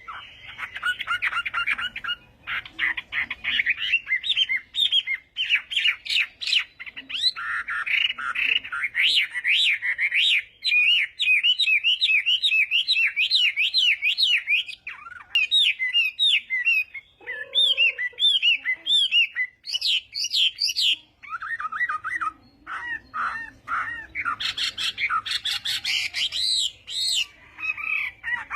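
Chinese hwamei singing a long, varied song: loud whistled phrases and runs of rapidly repeated notes that sweep up and down, with only short pauses between phrases.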